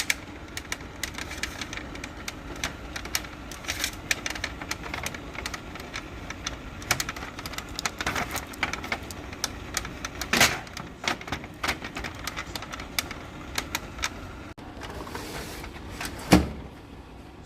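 Plastic parts of a Sharp copier clicking and knocking as the waste toner box and its compartment are handled and snapped shut. Near the end comes a short slide and a heavy thump, fitting the paper tray being pushed back into the copier.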